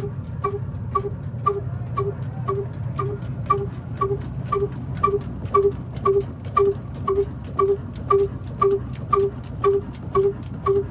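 Old black diesel engine running steadily: a low hum with a ringing metallic clink about twice a second, the clinks growing more pronounced in the second half.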